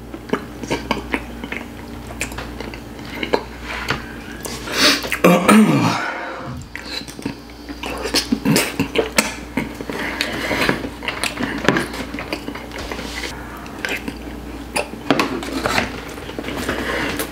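Close-miked mouth noises of chewing a mouthful of butter chicken, with a metal fork clicking and scraping against a plastic takeout container. About five seconds in, a short hummed "mm" falls in pitch.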